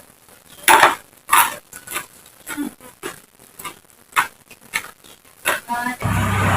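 Close-up chewing and crunching of raw vegetables, with irregular crisp crunches, the loudest about a second in. Near the end a motor vehicle's engine comes in with a steady low hum.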